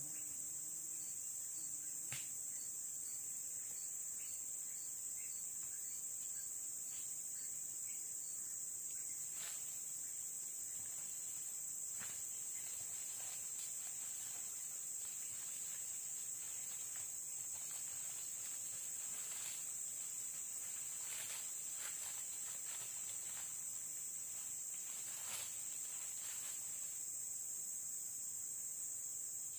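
Continuous high-pitched insect chorus, steady and unbroken, with faint scattered clicks and rustles.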